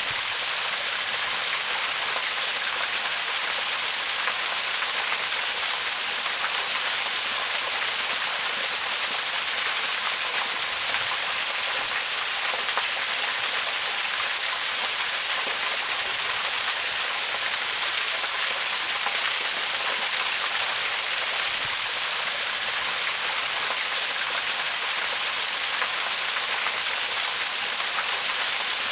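Waterfall: steady rush of falling water, an even, bright hiss that holds at one level without change.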